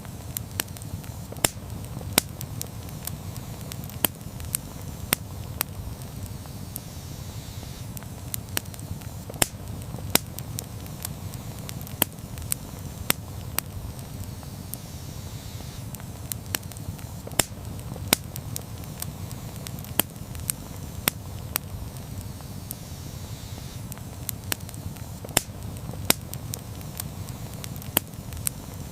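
Campfire burning: the wood crackles with irregular sharp pops and snaps, about one or two a second, over a steady low rumble of the flames.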